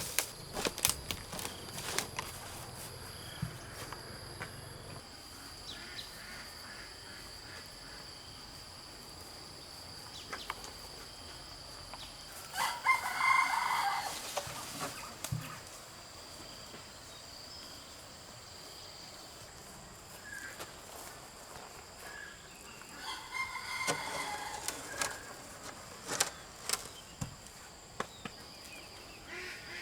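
Rooster crowing twice: a loud crow about 13 seconds in and a fainter one about 23 seconds in. Behind it are scattered knocks and clicks and a steady faint high-pitched tone.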